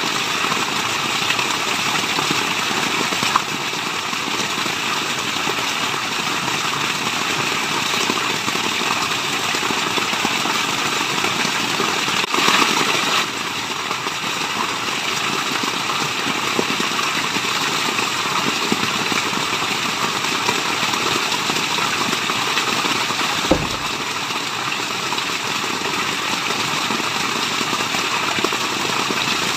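Waterfall: a steady rush of falling water, with a brief louder surge about twelve seconds in and a single short knock a little past the twenty-second mark.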